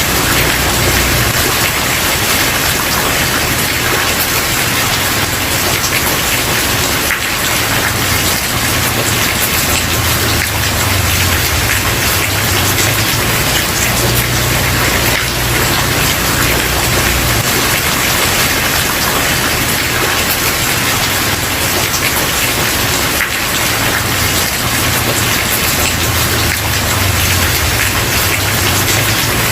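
Steady heavy rain falling on a surface, a dense even hiss with many individual drop hits, and a low rumble that swells and fades underneath.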